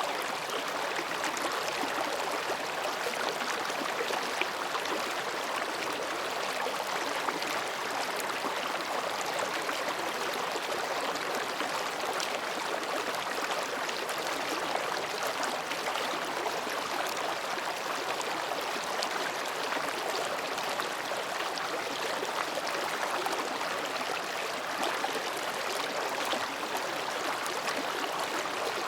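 Mountain stream babbling steadily over and between rocks, an even rush of water with fine splashing ticks.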